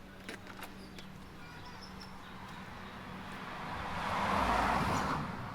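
A car passing by, its tyre and engine noise swelling up over a couple of seconds and fading away near the end. A few light clicks of parts being handled come before it.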